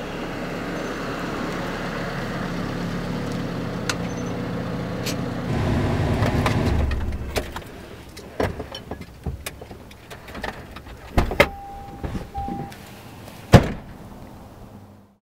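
A car engine running steadily, swelling briefly about six seconds in, then dying away, followed by clicks and knocks, a short steady beep and two car-door thuds, the second the loudest.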